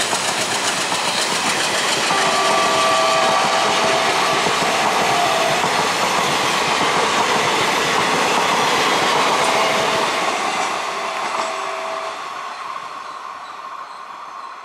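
Passenger train hauled by a WDG-3A diesel locomotive rolling past, its wheels clattering over the rail joints. A multi-note horn sounds in short blasts about two seconds in and again near ten seconds, and the rumble fades as the train draws away.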